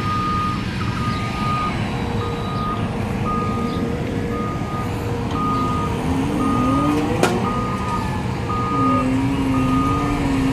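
Back-up alarm beeping steadily about once a second over a heavy diesel engine that revs up and down, with one sharp click about seven seconds in.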